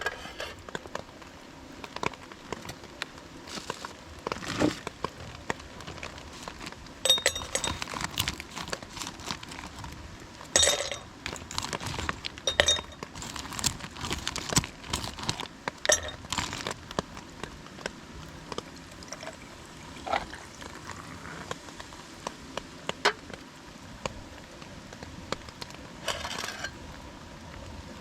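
Camp cookware and utensils being handled: scattered clinks and knocks, rustling, and a few short pours of liquid.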